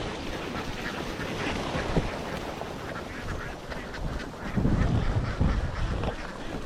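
A large flock of domestic ducks quacking, many calls overlapping into a continuous chatter. A louder low rumble comes in about two-thirds of the way through and fades before the end.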